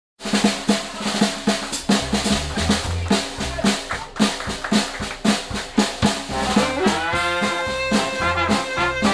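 Live jazz band playing: a drum kit with snare and a bass line start abruptly, and brass horns come in about two-thirds of the way through.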